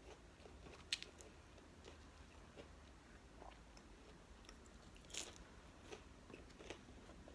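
Close-miked eating of fast food: quiet chewing with a few short, sharp crunchy bites. The loudest comes about a second in, and three more fall between five and seven seconds in.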